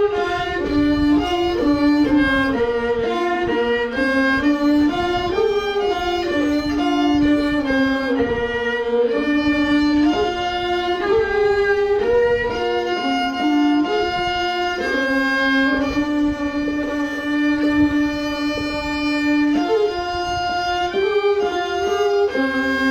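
A violin playing a slow melody in held notes that step up and down.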